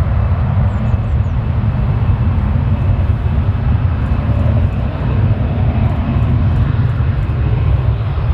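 Jet airliner engine noise: a loud, steady roar with a heavy low rumble.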